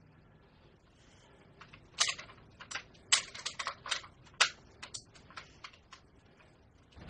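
An irregular cluster of sharp clicks and knocks over about three seconds, the loudest about two, three and four and a half seconds in.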